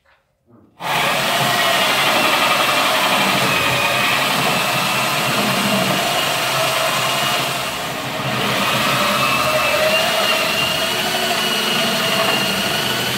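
Handheld electric drill running continuously under load, a steady motor whine over grinding noise, easing briefly about eight seconds in.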